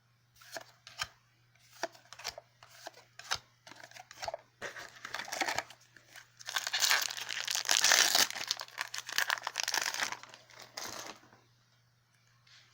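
Foil booster-pack wrapper being handled and torn open: a few separate crackles, then a longer stretch of continuous crinkling and tearing that stops shortly before the end.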